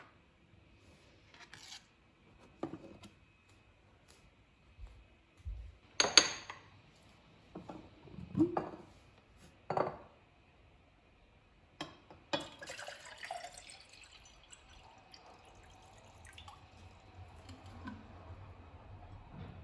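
Kitchen handling sounds: a string of separate knocks and clinks of glass and dishes, with some liquid sounds, turning to a busier clatter about twelve seconds in. A faint steady high hum runs underneath.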